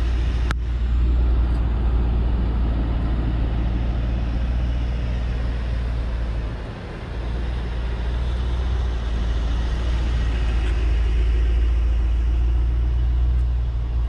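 Mercedes-AMG GT63 S's twin-turbo V8 running at low speed as the car pulls away, a steady deep rumble with a brief dip in level about seven seconds in.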